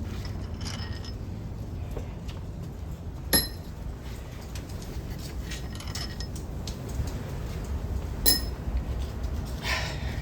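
Metal tools and loose bolts clinking while cylinder-head bolts are taken out: two sharp ringing clinks about three and eight seconds in, with lighter clinks between them.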